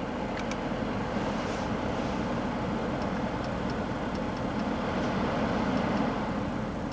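Steady rush of air from a 2011 Audi A8's climate-control blower inside the cabin, with a few faint clicks from the controls near the start.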